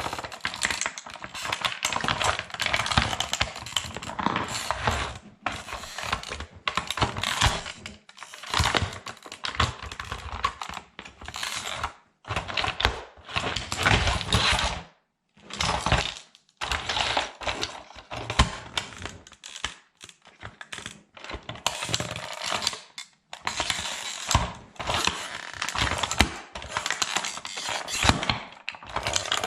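Plastic toy truck cracking and crunching under a sandal sole: dense runs of snapping clicks in bursts, with short pauses between presses.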